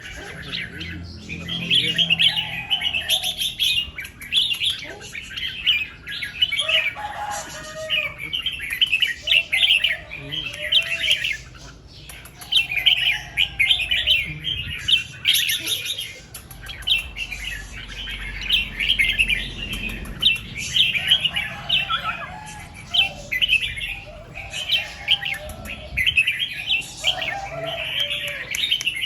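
Red-whiskered bulbuls singing: short, mellow warbled phrases recur every second or two, over a dense, continuous run of quick high chirps.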